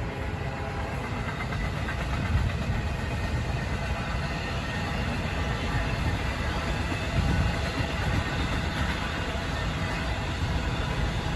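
Norfolk Southern westbound intermodal freight train passing: a steady rumble of wheels on the rails, slowly growing louder, with a few brief knocks.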